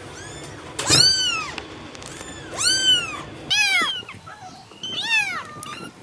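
Cat meowing four times, each meow rising then falling in pitch.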